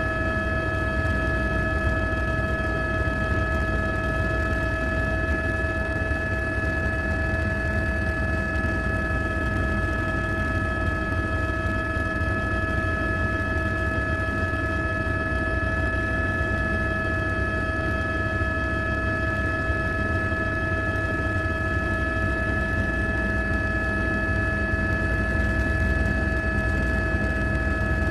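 A drone's propellers whining steadily, several fixed pitches layered over a low rumble, with no change in speed.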